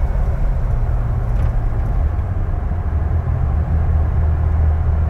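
Inside the cab of a 2006 Jeep Wrangler Rubicon on the move: the steady low drone of its 4.0-litre inline-six under light cruise, with tyre and road noise.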